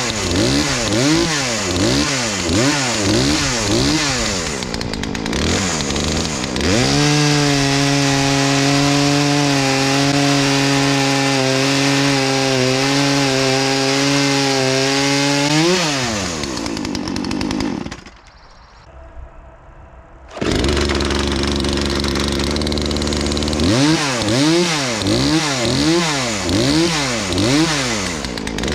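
Gas chainsaw running with its chain freshly sharpened. The engine revs up and down rapidly at first, then holds a steady, lower pitch for about nine seconds under load in the wood. It drops to a quiet idle for a couple of seconds and then revs up and down rapidly again.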